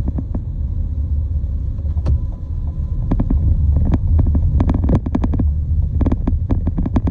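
Steady low rumble of a vehicle on the move, overlaid with frequent short, irregular clicks and knocks.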